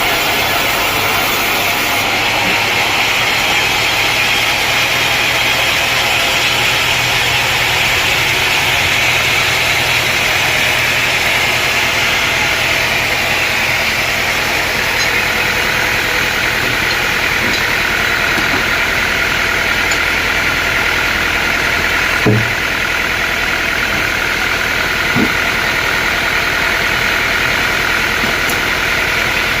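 A sawmill's engine running steadily, with two short knocks about three seconds apart in the last third.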